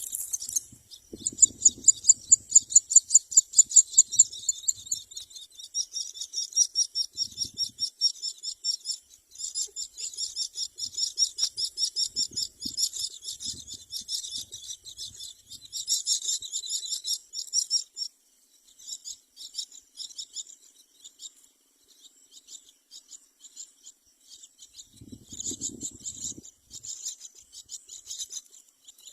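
Nias hill mynas calling: rapid, raspy, high-pitched calls repeated several times a second, loudest and most regular in the first few seconds and thinning out past the middle. A few faint low thumps are mixed in.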